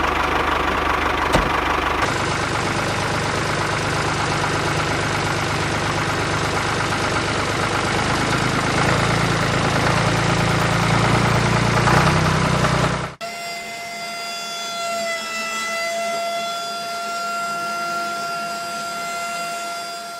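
An engine running steadily with a dense low rumble, which cuts off abruptly about 13 seconds in. A quieter steady whine made of a few clear pitched tones follows.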